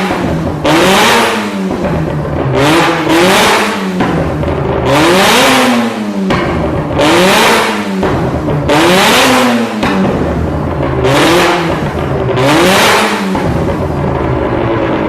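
Car engine revved hard again and again, each rise in pitch followed by a loud burst of exhaust backfire bangs and crackle, about seven times.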